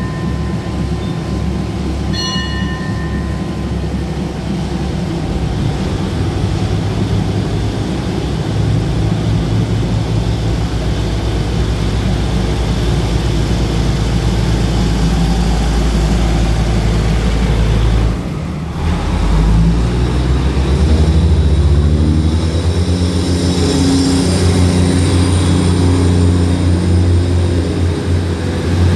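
Passenger train's coaches rolling along the platform track: a steady rumble and clatter of wheels on the rails that grows louder as the train picks up speed, dipping briefly about two-thirds through. A short high tone sounds about two seconds in.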